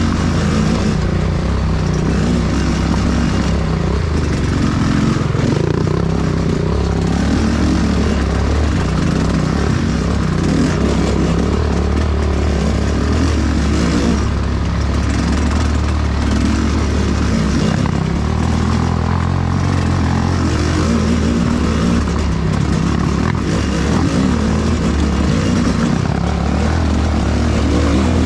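Enduro motorcycle engine running continuously while riding, its pitch shifting up and down a few times.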